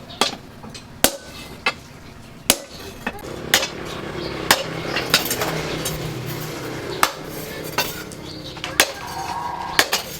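Hammer striking metal in irregular single blows, roughly one a second, with a low steady noise rising underneath in the middle.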